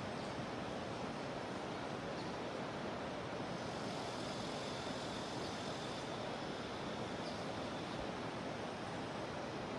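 Steady rush of flowing river water, with a faint high cicada drone that comes in about a third of the way through.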